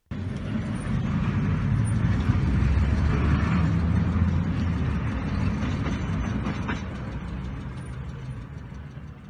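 Vehicle engine and road noise picked up by a dash cam: a steady low rumble that swells in the middle and fades near the end.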